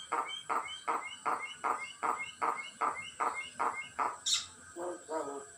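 Common myna chick calling in a rapid run of short harsh notes, about four a second, then one sharp rising call and a few shorter calls near the end.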